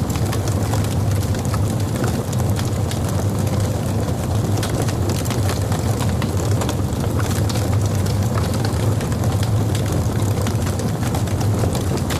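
Wood logs burning in a fireplace: a steady low rumble of flame with frequent, irregular sharp crackles and pops.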